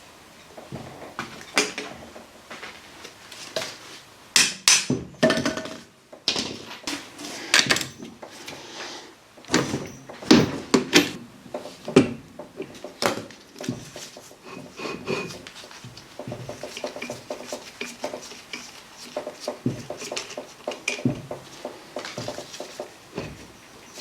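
Hand tools and metal car parts clanking, knocking and clicking irregularly as a car's rear brake drum is worked off, some strikes ringing briefly.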